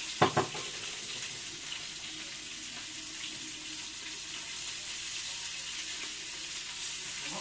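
Kitchen tap running steadily into a sink, a continuous even hiss, with a brief loud knock about a quarter second in.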